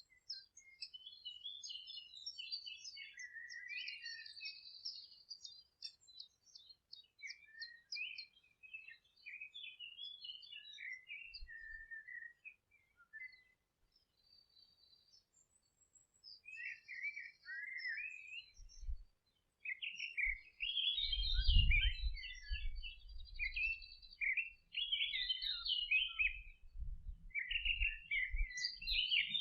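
Several songbirds singing and calling over one another, with quick chirps and trills. The calling thins to a near-quiet gap about halfway through, then comes back busier, with a low rumble underneath during the second half.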